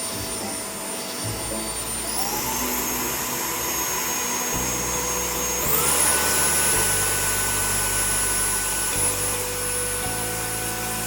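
Jimmy JV85 Pro cordless vacuum cleaner running with a steady high whine, its motor speeding up twice: about two seconds in and again near six seconds.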